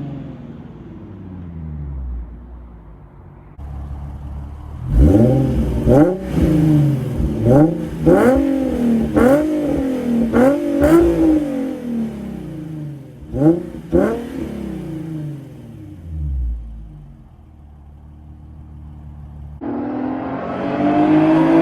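Nissan 350Z's VQ V6 through a Motordyne Shockwave exhaust, idling, then blipped in a quick string of about seven sharp revs, each dropping straight back. Two more quick blips follow before it settles to idle, and near the end the engine climbs to a louder, held higher speed.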